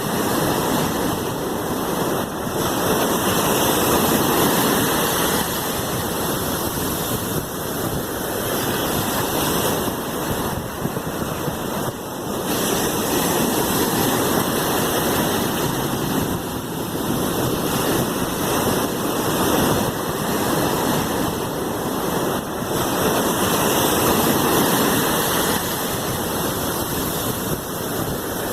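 Sea waves washing in: a continuous rush of water that swells and eases every few seconds.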